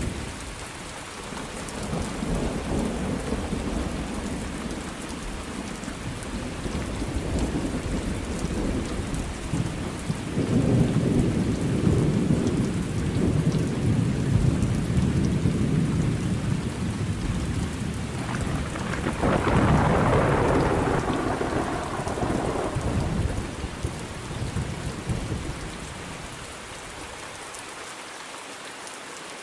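Thunderstorm: steady rain falling with long rolling thunder, the rumble building from a few seconds in and swelling strongest through the middle, a sharper crack of thunder about two-thirds of the way through, then fading to rain alone near the end.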